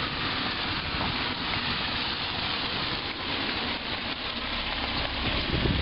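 Steady rushing hiss of flowing flood runoff water.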